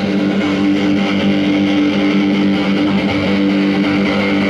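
Live rock song, instrumental break: strummed, distorted electric guitar holding a sustained chord, with bass.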